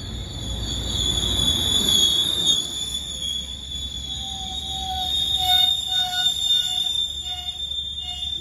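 Metrolink bilevel passenger cars rolling past close by, with a steady high-pitched wheel squeal over the low rumble of the train. From about halfway through, a short tone repeats about twice a second.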